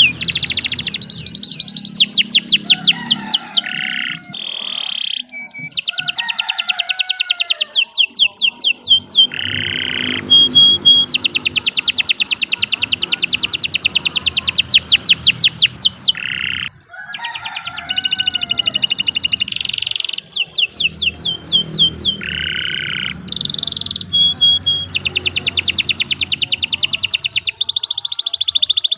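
A domestic canary singing continuously in long, fast trills of repeated sweeping notes, switching abruptly from one rolled phrase to the next every few seconds.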